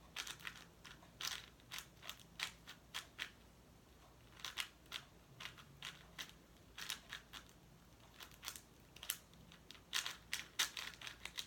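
Plastic speed cube clicking faintly as its layers are turned, in quick irregular runs of clicks with short pauses between them.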